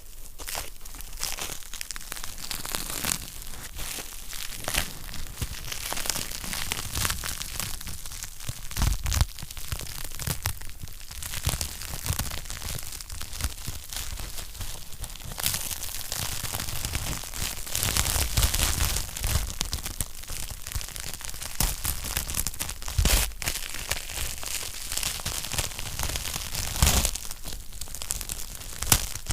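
Wood fire crackling: a continuous stream of small snaps and pops from burning logs, with a few louder pops scattered through.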